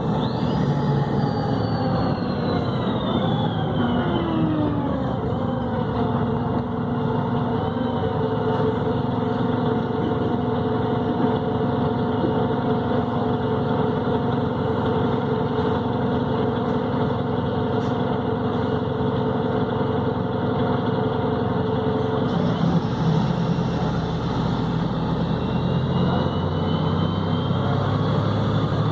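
Volvo B7RLE city bus's six-cylinder diesel with Voith automatic gearbox whine. The whine falls away over the first few seconds as the bus slows, and the engine then runs steadily. From about 22 seconds in the engine note rises and a climbing whine sets in as the bus pulls away.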